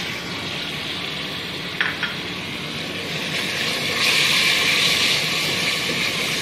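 Tomato-paste masala sizzling in hot oil in an aluminium pot, growing louder about four seconds in. Two short knocks come about two seconds in.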